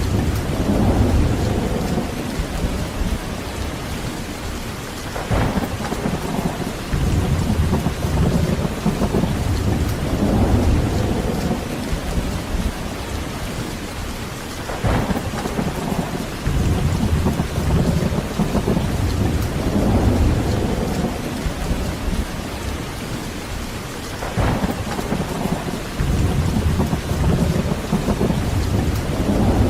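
Heavy rain falling steadily with thunder rolling in repeated deep swells, and three sharper cracks about ten seconds apart.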